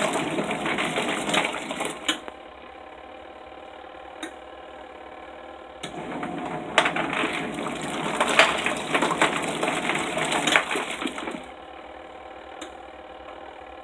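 Portable washing machine agitating a load of clothes in water: churning and sloshing for about two seconds, a quieter pause of a few seconds, then about five more seconds of churning before it goes quiet again.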